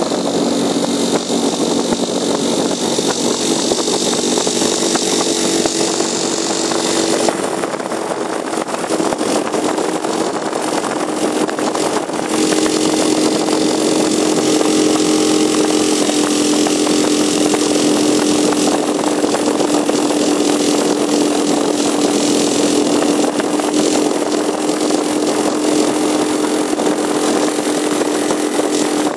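A small 4 hp outboard motor running steadily at part throttle, pushing a loaded boat over a light chop, with the hiss of water spray. Its note and loudness dip about seven seconds in and pick up again around twelve seconds.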